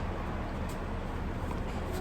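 Steady low rumble of background noise, with no distinct knocks or tool sounds.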